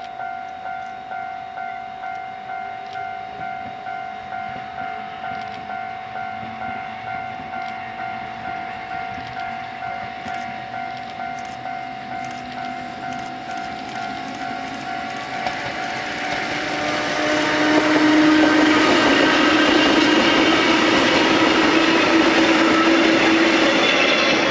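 A level-crossing warning bell ringing steadily, about one and a half strikes a second. From about two-thirds of the way in, a Kotoden retro train of Taisho-era electric cars runs past loudly on the rails, drowning out the bell.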